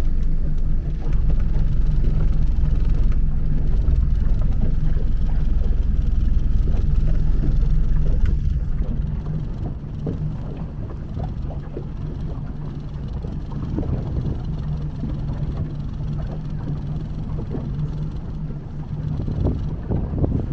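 Aircraft engines running with a steady low drone, louder for the first eight seconds or so and then easing off, with wind on the microphone.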